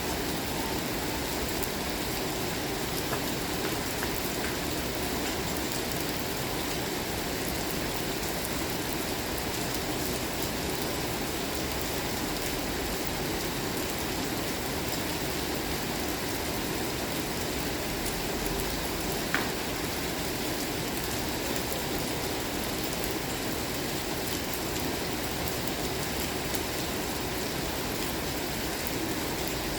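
Steady rain falling, an even wash of drops hitting surfaces, with one brief tick about two-thirds of the way through.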